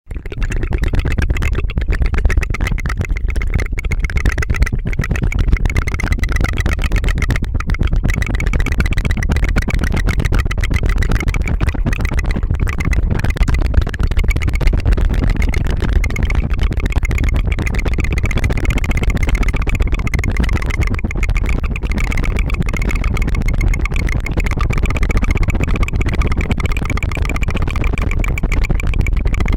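Tongue fluttering close to a binaural ASMR microphone: a fast, unbroken putter of mouth clicks that keeps going steadily throughout.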